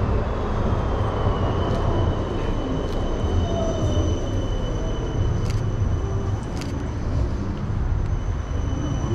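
Electric tram running on street rails: a steady low rumble with a thin high-pitched whine held throughout and a lower motor whine that falls and then rises in pitch near the end.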